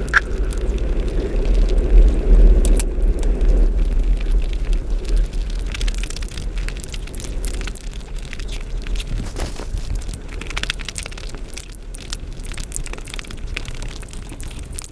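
Close-miked eating sounds: wet chewing, lip smacks and crackling mouth noises as curried chicken is bitten and chewed, with a heavy low rumble through the first few seconds.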